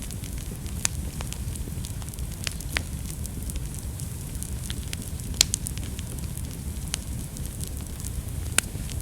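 Wood fire burning in a fireplace: a steady low rumble of flames with scattered sharp crackles and pops, the loudest pop about five and a half seconds in and another near the end.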